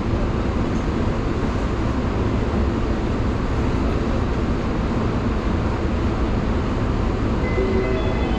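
Steady rumble of a JR Yokohama Line E233-series electric train. Near the end, the motors' whine sets in with tones rising in steps as the train takes power.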